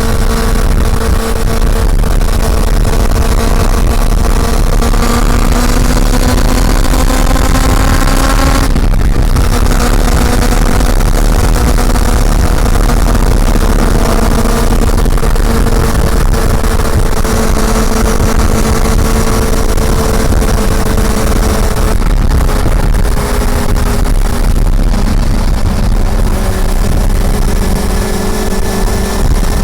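Honda CB400 Super Four's inline-four engine running under way at a steady cruise, with a heavy low wind rumble on the microphone. The engine note climbs slowly and then cuts out briefly about nine seconds in, like an upshift. It comes back a little lower and holds nearly steady.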